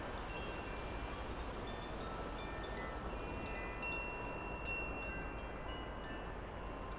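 Wind chimes ringing, with several overlapping tones that hold for a second or so and fade, over a steady low outdoor hum.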